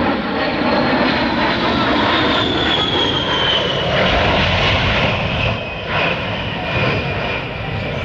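A-10 Warthog's twin TF34 turbofan engines roaring as the jet passes, with a high whine that falls in pitch over the first few seconds; the roar eases slightly near the end.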